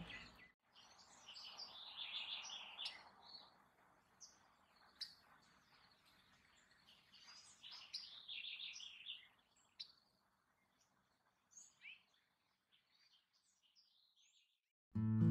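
Faint birdsong: small birds chirping and twittering in short bursts over a light outdoor hiss, thinning out to a few isolated chirps and then near silence.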